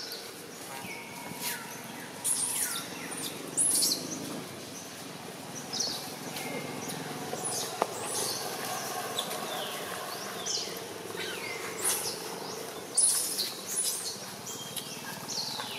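Birds chirping: many short, high calls that fall in pitch, scattered throughout, with the loudest around four seconds in and again near thirteen seconds. Beneath them is a faint steady outdoor background, and one sharp click comes about halfway through.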